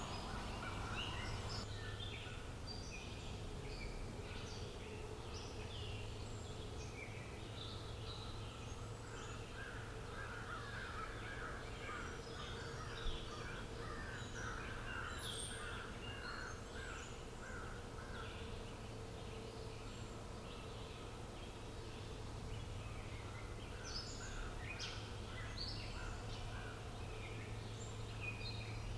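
Several wild birds chirping and calling over a steady outdoor background, with a quick run of repeated calls for several seconds in the middle and a low steady hum underneath. A single brief click stands out about halfway through.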